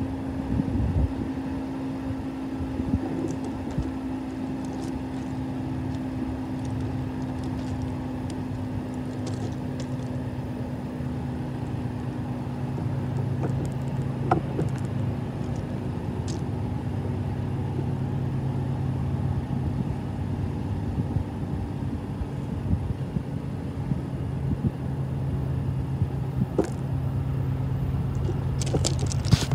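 Diesel locomotive engines running under steady power with a continuous drone. A deeper hum grows stronger after about ten seconds and the sound slowly gets louder, with a few faint clicks.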